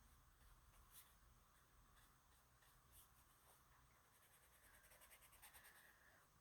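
Faint scratching of a graphite pencil on sketchbook paper, with a few separate strokes and then a quick run of short back-and-forth strokes near the end.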